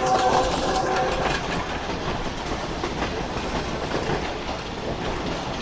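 Passenger train running along the track, its wheels clacking over the rail joints under a steady rumble. A brief steady tone sounds over it for about the first second.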